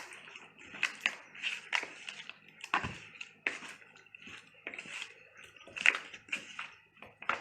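Irregular clicks, scrapes and crunches, about two a second, from handling food or utensils in a kitchen.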